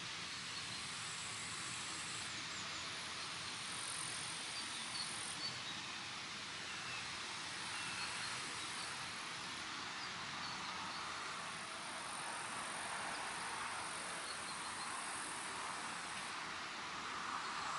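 Steady countryside ambience: an even rush of breeze through the open air, with a few faint short bird chirps and a high insect buzz that comes and goes every few seconds.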